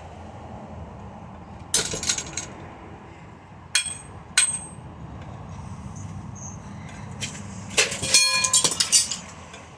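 Hard knocks and metallic clangs of a ceiling fan being smashed: a cluster of hits about two seconds in, two strikes that ring briefly around four seconds, and a longer run of clanging with a ringing metal tone near the end.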